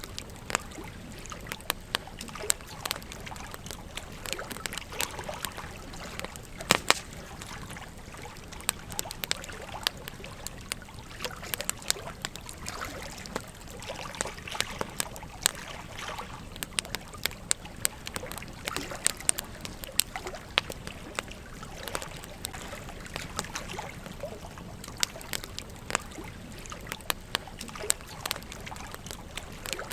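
Wood campfire crackling, with frequent sharp irregular pops, over the steady rush of a gently flowing stream.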